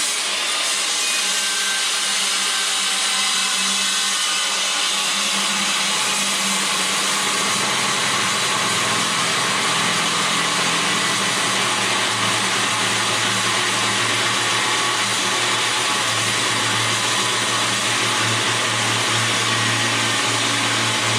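Milwaukee metal-cutting circular saw cutting through a steel K-member, loud and steady. The saw starts at once, and its low hum drops lower about six seconds in.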